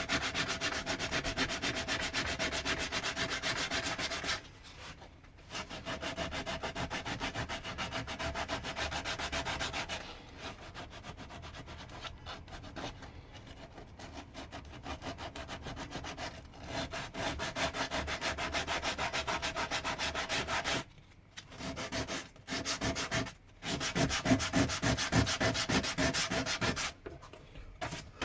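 Pine wood being hand-sanded with sandpaper in rapid back-and-forth strokes. There are brief pauses about four seconds in and twice around three-quarters of the way through.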